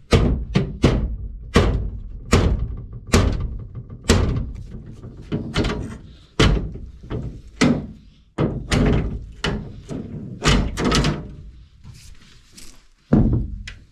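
A series of heavy blows on something solid, about eighteen in all, roughly one every half second with uneven gaps, each ending in a short ring. There is a lull near the end before one last hard blow.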